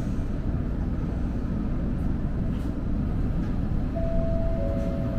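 Streetcar running noise heard from inside the car as it pulls away from a stop: a steady low rumble of motor and wheels on the rails. A thin steady tone joins about four seconds in, with a second, slightly lower one just after.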